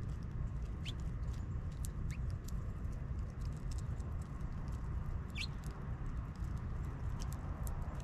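Small bird giving three brief, rising high call notes, about a second in, two seconds in and five seconds in, among scattered small sharp clicks over a steady low rumble.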